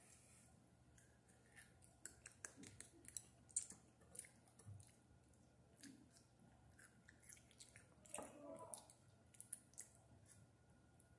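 Faint close-up chewing of crunchy sushi topping bits: an irregular scatter of quick crunches and small clicks.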